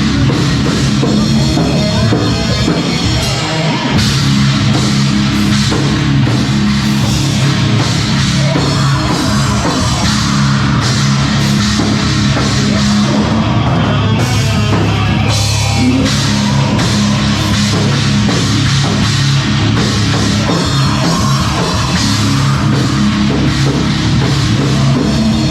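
A rock band playing loud and heavy: drum kit, bass and guitars in a steady wall of sound.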